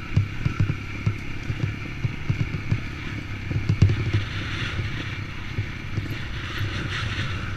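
Dirt bike running at low throttle on a rough trail, with irregular knocks from the bike over the ground and wind hiss on the microphone.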